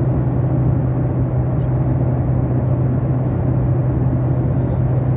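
Steady drone of an airliner cabin in flight: engine and air noise with a constant low hum.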